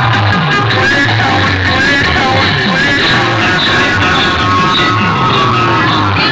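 Loud DJ music played through a large sound-box system, with heavy bass notes pulsing under a high held melody.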